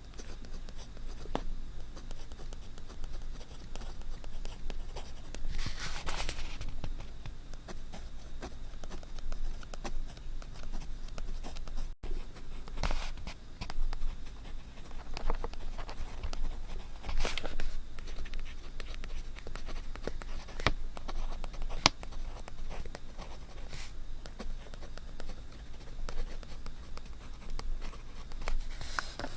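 Close-miked paper crafting sounds: small taps, scratches and handling noises of hands and tools on paper, with a brief paper rustle about six seconds in and another around seventeen seconds.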